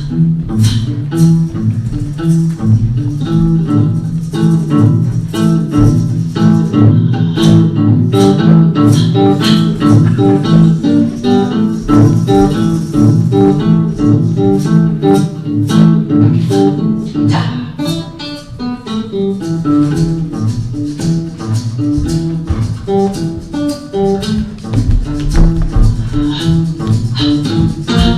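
Live guitar music: quick plucked notes over a low bass line, with sharp taps among the notes.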